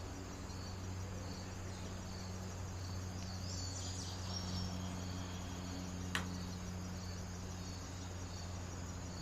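Crickets chirping steadily in an even pulsing rhythm, over a low steady hum. A single sharp click about six seconds in.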